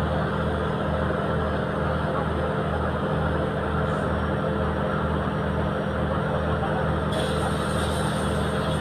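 Boat's inboard engine running steadily with a low, even throb of about three beats a second. A hiss joins above it about seven seconds in.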